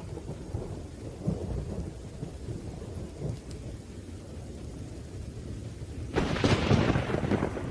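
Thunderstorm: low rolling thunder over steady rain, then a sudden, louder thunderclap about six seconds in that lasts about a second and a half.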